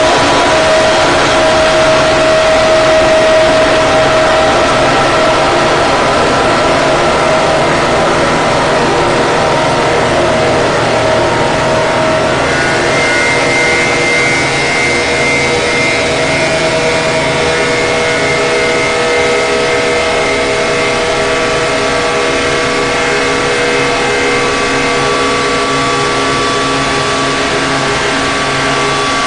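Harsh-noise drone music: a loud, unbroken wall of distorted noise with held tones layered over it. The tones shift about halfway through, with a higher one entering near the end.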